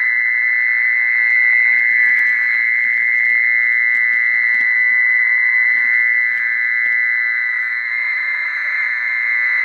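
Mole cricket call played from a loudspeaker as a lure: a steady, unbroken high-pitched trill that holds one pitch.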